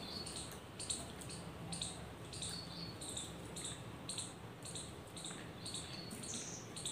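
A person chewing soft homemade potato fries close to the microphone: wet mouth smacks about two to three times a second.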